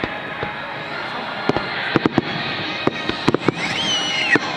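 Fireworks display: shells bursting in a string of sharp bangs over a steady crackling haze, with a brief high gliding tone near the end.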